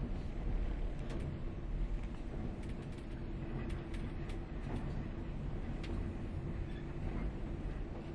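Running sound inside a JR 189-series electric multiple unit passenger car: a steady low rumble of the train moving at modest speed, with a faint steady hum and scattered light creaks and clicks.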